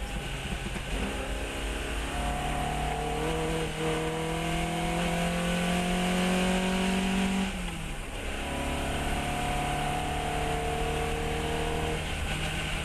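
Fiat 132 race car's four-cylinder engine pulling hard under acceleration, its note climbing steadily through a gear. It drops sharply at a gear change a little past halfway, then climbs again until another change near the end.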